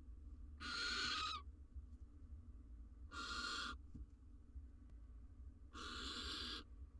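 Barn owl giving three harsh, rasping hisses, each just under a second long and about two and a half seconds apart.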